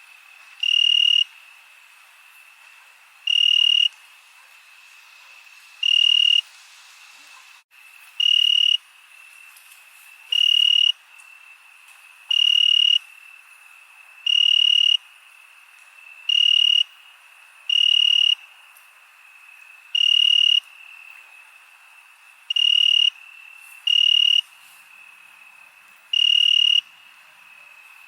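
Crickets chirping at night: a steady high trill with louder half-second chirps about every two seconds, over a faint hiss of other insects.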